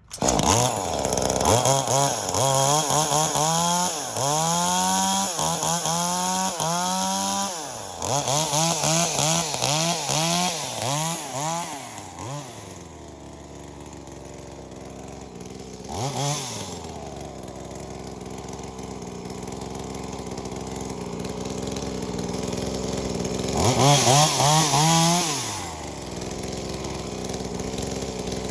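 Top-handle chainsaw with a small two-stroke engine, a V-Modest 2511T clone of the Echo 2511T, revved over and over for about twelve seconds, its pitch rising and falling with each throttle blip, some revs held high. It then settles to a steady idle, with one quick blip partway through and a short held rev near the end.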